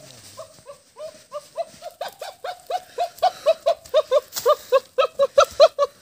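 A trapped bird calling in a fast run of short, repeated alarm calls, about four or five a second, growing much louder from about two seconds in.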